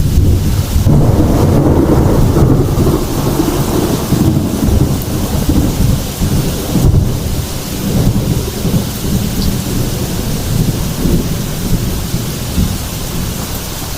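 Thunderstorm: a long, deep roll of thunder breaks about as it begins, is heaviest in the first few seconds, then rumbles on and slowly eases, over steady heavy rain.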